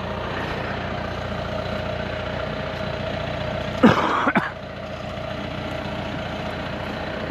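Vehicle engine running steadily at low revs. About four seconds in there is one brief, louder sound that falls in pitch.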